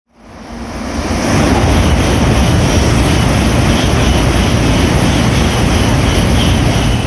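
Shinkansen bullet train running past the platform at speed on the through track: a loud, steady rush of rolling and wind noise that builds over the first second and then holds.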